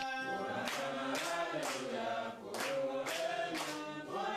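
A group of voices singing together in chorus, with a steady clap-like beat about twice a second. It starts suddenly, as if cut in.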